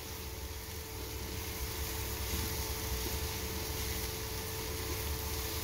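Bitter gourd and egg frying in a pan: a steady sizzling hiss over a low hum, growing slightly louder.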